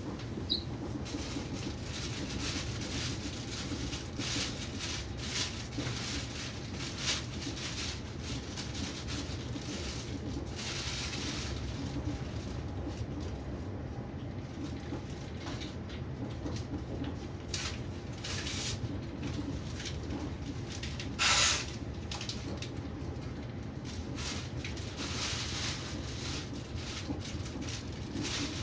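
Interior running noise of a passenger train coach at speed: a steady low rumble from the wheels on the track, with light ticks and rattles. About two-thirds of the way through there is one short, loud, sharper noise.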